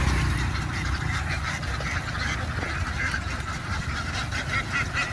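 A flock of domestic ducks quacking in a dense, continuous chorus, with the calls coming through more distinctly and rhythmically near the end.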